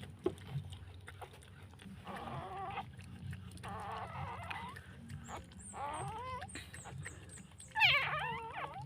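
Newborn puppy crying in high, wavering squeaks, a short rising one about six seconds in and a louder burst near the end. Softer sounds from the mother dog tending the litter come between.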